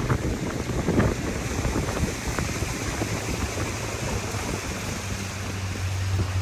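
Motorboat under way on a lake: wind buffeting the microphone and water rushing and slapping against the hull, with a few splashes in the first second. A steady low engine hum comes up stronger near the end.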